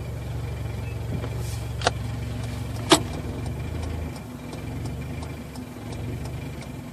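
Car engine running at about idle speed, heard from inside the cabin as a steady low hum that eases off a little about four seconds in. Two sharp clicks come about two and three seconds in, over a faint regular ticking.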